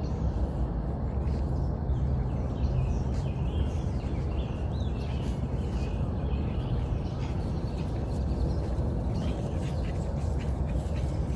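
Faint short animal calls over a steady low background rumble.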